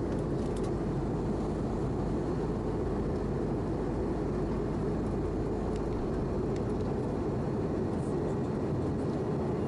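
Steady in-cabin noise of an Airbus A319-111 airliner in flight, airflow and engine noise, with most of its weight in the low end, as the aircraft comes in to land.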